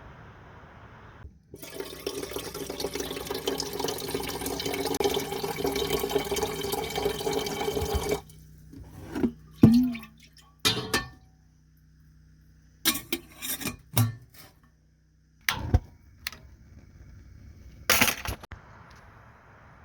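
Liquid pouring steadily for about six seconds and growing louder, then a scatter of short knocks and clinks.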